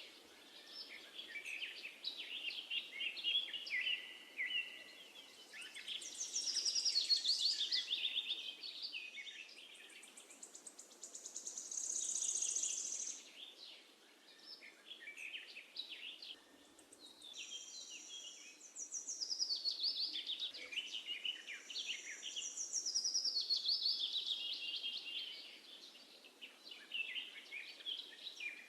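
Birdsong: several birds chirping and trilling in overlapping phrases that come and go every few seconds, over a faint steady background hiss.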